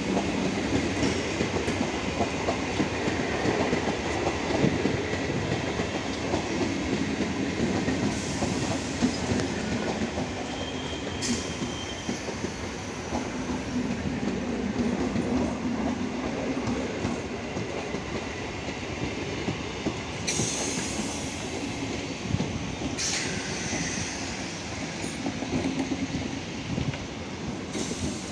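ICF-rake electric multiple unit (EMU) local train rolling past at close range, pulling in to a station stop. It makes a continuous rumble, and the wheels click over the rail joints. A couple of short hissing bursts come about two-thirds of the way through.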